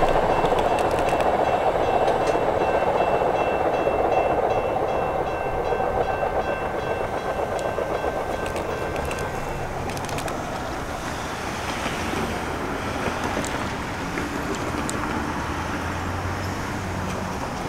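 Two-car CTA rapid transit train of Budd 2600-series cars running away along the track, its noise fading gradually. A thin steady whine sounds over it and stops about halfway through.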